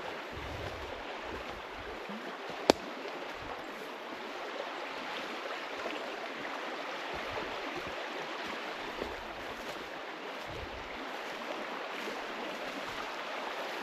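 A forest stream running with a steady rushing hiss. One sharp click sounds about three seconds in.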